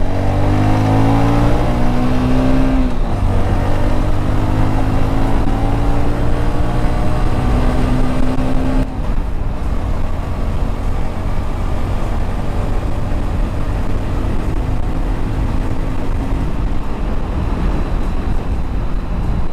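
Bajaj Platina H-Gear's single-cylinder engine accelerating hard under full throttle: the revs climb, drop at an upshift about three seconds in, climb again, and drop at another upshift near nine seconds. After that the engine runs steadily at speed in the higher gears, with more wind rush.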